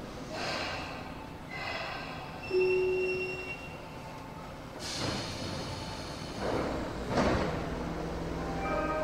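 Tobu 50000-series train standing at a station platform: rail and platform noises, a sudden hiss of air about five seconds in, then two whooshes. Chiming station music starts near the end.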